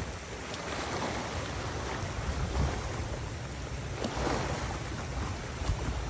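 Wind buffeting the microphone with a low rumble, over a steady rush of water.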